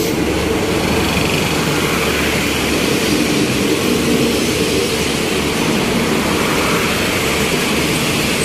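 Passenger train carriages rolling past along a station platform: a steady noise of steel wheels on the rails, with a faint engine hum under it.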